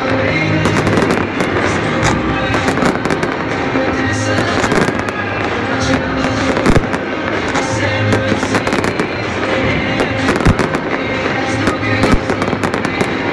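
Fireworks bursting in quick succession, many sharp bangs and crackles close together, with music playing underneath.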